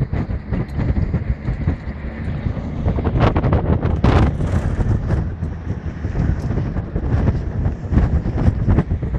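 Low, rumbling vehicle noise with wind buffeting the microphone, and a few sharper knocks about three and four seconds in.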